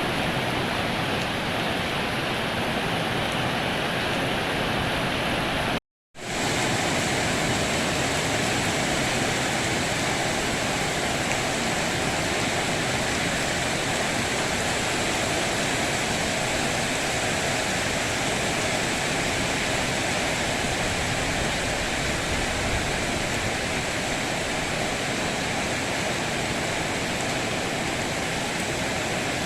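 Heavy rain falling, a steady even hiss, with a brief total dropout to silence about six seconds in.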